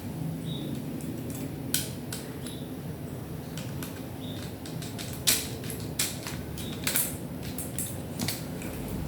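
Scattered clicks and taps of small plastic and metal parts and tools being handled while a Philips stereo system is taken apart, with the sharpest click about five seconds in, over a steady low hum.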